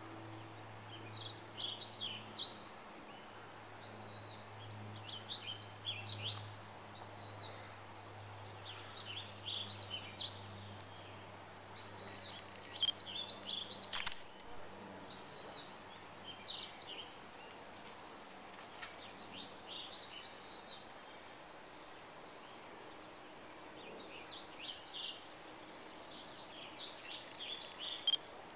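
Songbirds chirping and singing in short, repeated phrases throughout, over a faint steady low hum that fades out a little before halfway. A single sharp click comes about halfway through.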